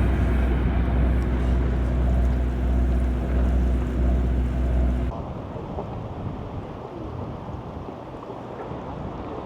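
Tour boat's engine running with a steady low drone, which cuts off abruptly about five seconds in. Quieter wind and water noise follows.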